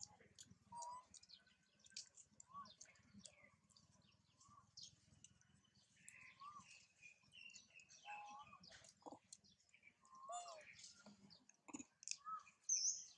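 Faint, scattered short chirps from small birds at several pitches, with light clicks in between.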